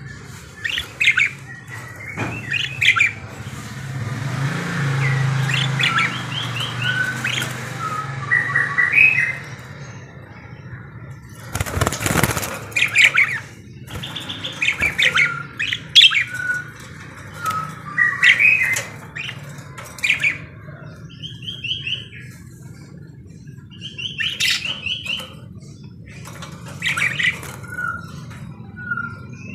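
Parakeets chattering, with repeated short chirps, warbling trills and squawks. About twelve seconds in there is one brief, loud burst of noise.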